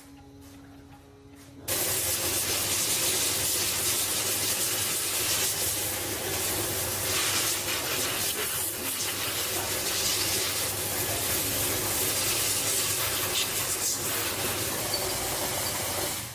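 A loud, steady hiss of air or spray under pressure, with a low hum beneath it. It starts abruptly about two seconds in and stops just before the end.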